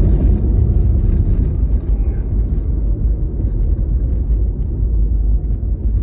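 Road and engine noise inside a moving car's cabin, a steady low rumble.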